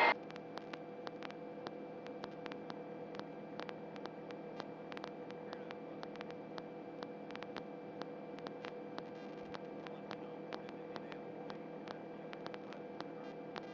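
Steady electrical hum with a light hiss and faint irregular clicks: the open radio or intercom line between transmissions.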